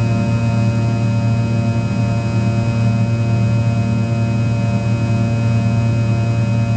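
Steady drone of a Fokker 100's Rolls-Royce Tay turbofan engines, an even, loud hum with a strong low tone and many higher tones over it, holding constant with no rise or fall.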